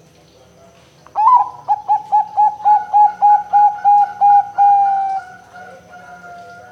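Zebra dove (perkutut) cooing: a run of about a dozen quick, evenly spaced notes begins just over a second in and ends in a long drawn-out note that fades away.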